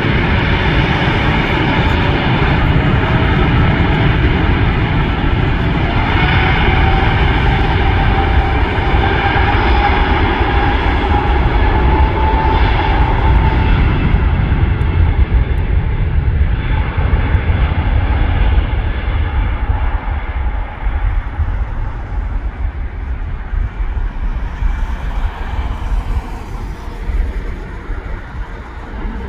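Airbus A350's Rolls-Royce Trent XWB turbofan engines at takeoff thrust: a heavy low roar with a whine that slowly rises in pitch through the first half. The sound then grows duller and fades in the second half as the aircraft moves away.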